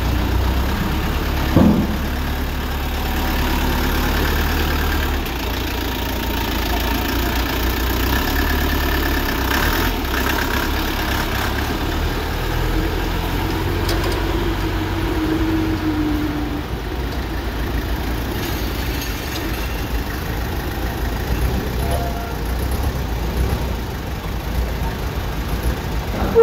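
Tractor engine running steadily, with a brief knock about two seconds in.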